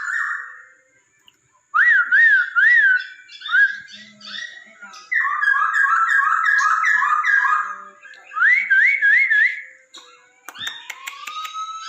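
Poksay Hongkong (a laughingthrush) singing loud whistled phrases: rapid looping up-and-down notes and runs of quick sweeping whistles, with short pauses between phrases. A series of sharp clicks comes in near the end.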